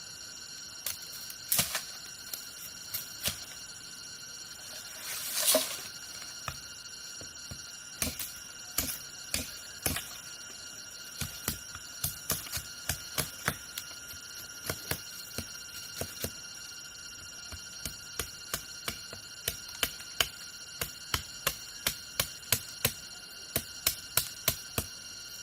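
Many sharp, irregular taps, at times several a second, over a steady high-pitched ringing drone; one louder rustling burst comes about five seconds in.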